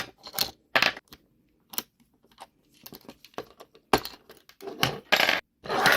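Handling noises of a small plastic toy train and its parts: scattered clicks, taps and crinkly rustles, with a longer rustling hiss near the end.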